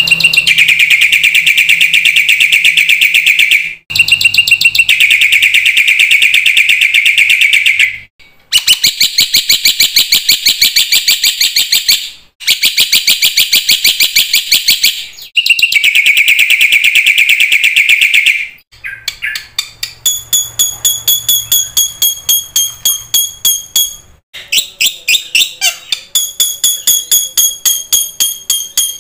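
Black-winged myna (jalak putih) singing loudly: several long phrases of rapid, harsh chattering notes with short breaks between them. About two-thirds of the way in it switches to runs of clear whistled notes repeated evenly, about three a second.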